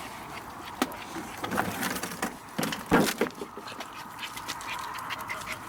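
Dogs panting among scattered knocks of wood and debris, with one loud knock about three seconds in; a faint steady hum comes in after it.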